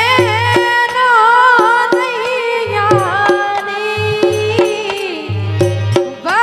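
Instrumental passage of Bundeli Rai folk music: a wavering, gliding melodic lead over a steady pattern of drum strokes.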